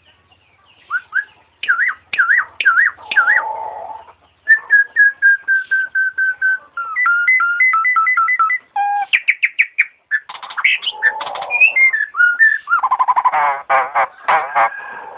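A jalak (starling) singing a varied run of whistles and mimicked sounds. About halfway through it whistles two notes that alternate back and forth like a two-tone ambulance siren. It then breaks into fast repeated notes and trills.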